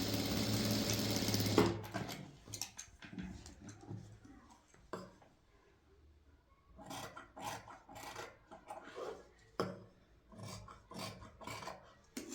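Electric sewing machine running steadily for about a second and a half, then stopping. Irregular rubbing and scraping sounds follow.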